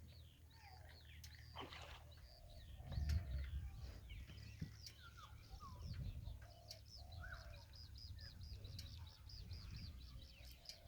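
Several small birds chirping and calling, with quick runs of high repeated notes, over a steady low rumble. A louder low thump comes about three seconds in.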